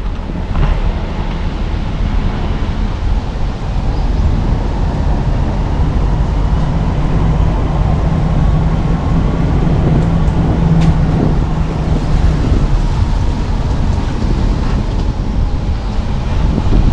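Car driving along a road, with a steady rumble of engine and tyres. An engine hum stands out for several seconds midway, and there is one short click about eleven seconds in.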